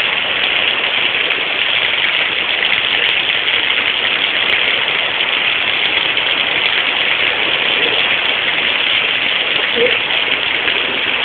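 Heavy rain falling, a steady hiss of water with no let-up.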